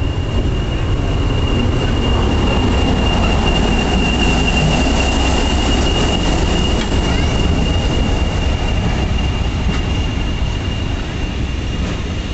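A heritage diesel locomotive and its coaches rolling past at close range: a steady low engine rumble with a continuous high-pitched wheel squeal over it.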